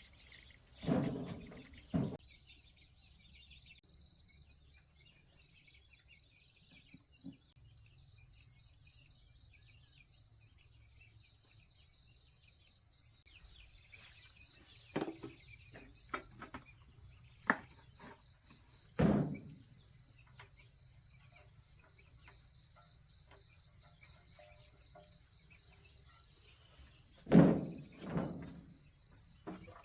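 Insects chirring steadily at a high pitch, with scattered knocks and clatters: two about a second apart at the start, several in the middle, and the loudest near the end.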